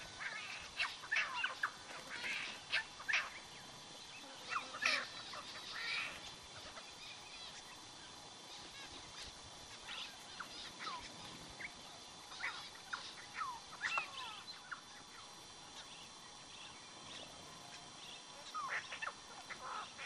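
Several small birds calling over one another: short chirps and quick downward-swept whistles, busiest in the first few seconds and again near the end.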